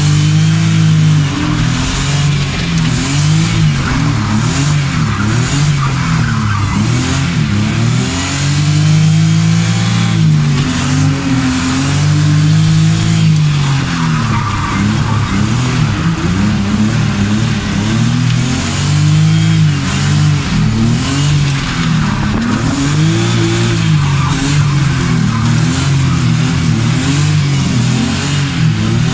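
Drift car engine revving hard up and down over and over through the gears, with tyre squeal from the sliding tyres.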